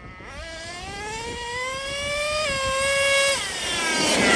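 Traxxas Revo 3.3 RC truck's two-stroke nitro engine revving up as the truck accelerates, its pitch climbing for about two seconds, holding briefly, then falling away about three seconds in. A burst of noise follows near the end.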